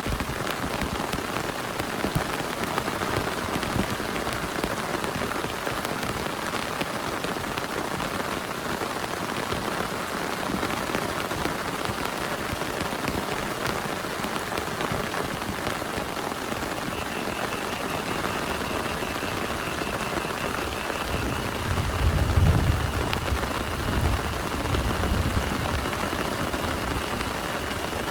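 Heavy rain falling steadily on a surface. A low rumble swells about 22 seconds in and fades over a few seconds.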